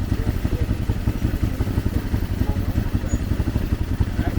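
ATV engine running steadily with a rapid, even chugging of firing pulses.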